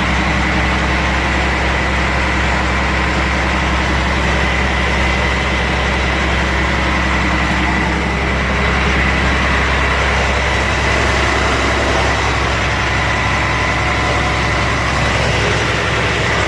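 Diesel truck engine idling steadily, with a thin steady high tone over the low running note.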